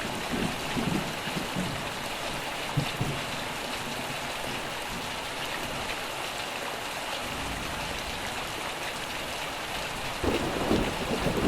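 Steady, even rain hiss with rolling thunder: a low rumble dies away over the first few seconds, and another swells up near the end.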